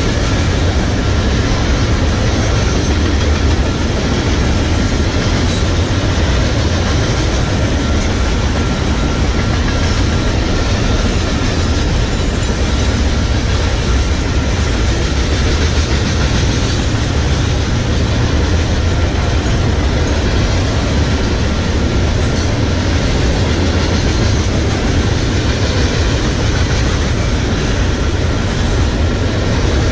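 Freight train cars rolling past close by: a loud, steady rumble of steel wheels on the rails.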